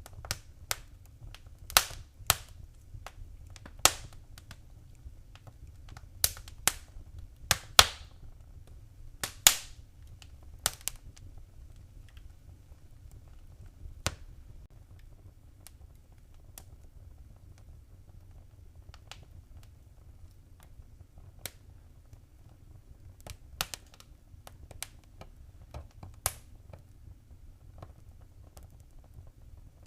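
Fireplace fire crackling: irregular sharp pops and snaps over a low, steady rumble. The pops are frequent and loud for the first ten seconds or so, then sparser and fainter.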